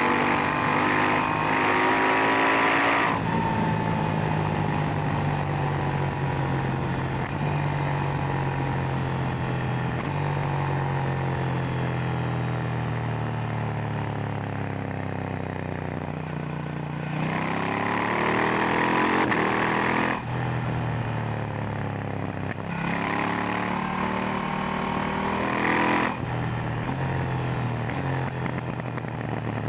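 KTM 890 Duke R's parallel-twin engine and exhaust under way. It pulls with rising revs for the first three seconds, then the throttle closes and the revs fall slowly for a long stretch. It accelerates hard twice more, just past halfway and again about three-quarters through, each pull cut off suddenly as the throttle shuts.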